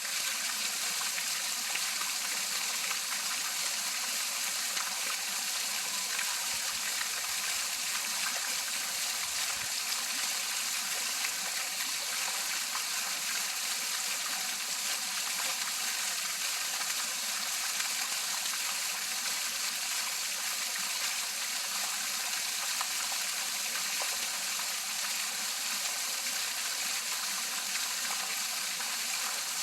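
Pond fountain spraying and falling back into the water, a steady splashing rush with no breaks.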